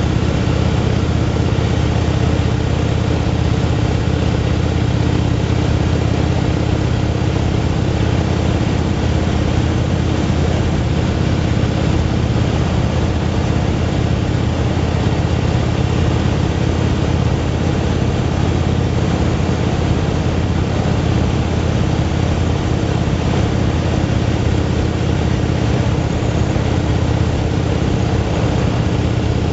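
Motorcycle engine running at a steady speed, a low drone that holds one pitch throughout.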